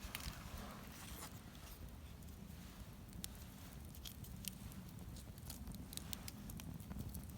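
Wood campfire crackling: irregular sharp pops and snaps over a low, steady rumble of the burning fire.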